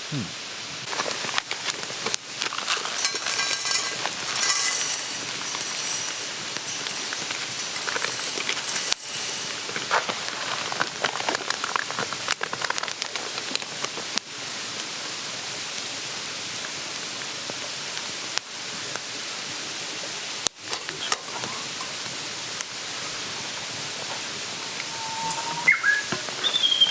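A mountain stream's steady rushing, with a wood fire crackling densely through the first half. A bird chirps a few times near the end.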